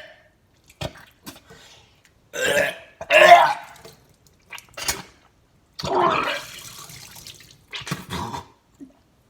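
A man burping loudly several times in a row after chugging cold chicken noodle soup, the loudest about three seconds in and a longer, drawn-out one about six seconds in.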